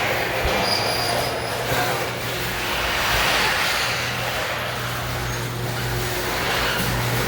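Motorised garage door running: a steady rumble over a constant low motor hum, with a thin metallic squeal about a second in.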